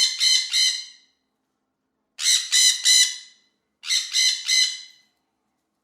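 A parrot squawking in three rapid bursts of about three squawks each, a second or so apart.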